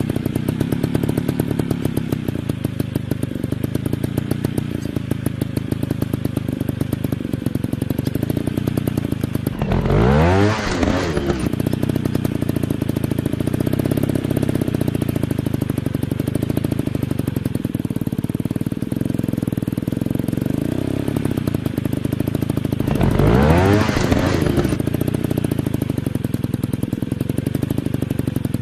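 Dirt bike engine idling with an even pulse, revved up and back down twice in short throttle blips about thirteen seconds apart.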